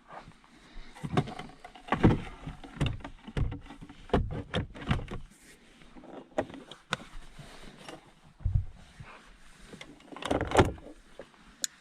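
Things being handled and moved about inside a car: a run of irregular clunks, knocks and rustles, with louder thuds about two seconds in and again near the end.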